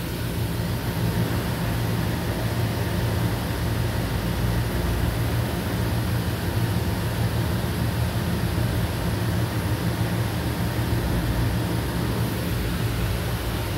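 Mitsubishi 6B31 3.0-litre V6 gasoline engine running steadily at idle, heard up close in the engine bay. The engine has a leaking cylinder head gasket.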